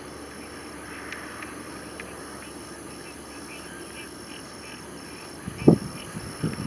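Outdoor ambience with a steady hiss, a high tone pulsing on and off about twice a second, and a few faint short chirps. A short, loud, low-pitched sound comes near the end, followed by a weaker one.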